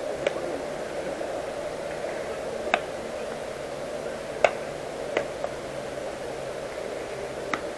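Steady background noise with five sharp knocks scattered through it, the loudest a little past the middle.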